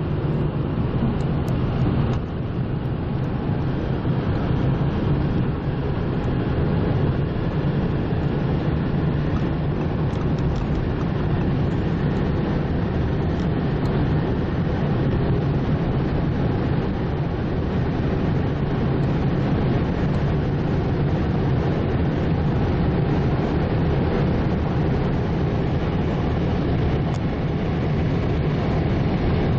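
Audi A6 3.0 TDI V6 diesel running hard at high speed, a steady engine drone mixed with heavy road and wind noise; the level dips briefly about two seconds in, as at a gear change or a lift of the throttle.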